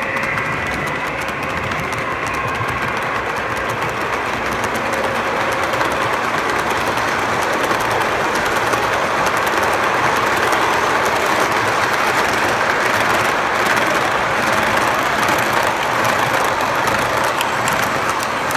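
Lionel MPC O-scale diesel train running on its track, a steady mechanical rumble and rush of wheels and motor that swells a little after the middle. A faint steady tone fades out in the first few seconds.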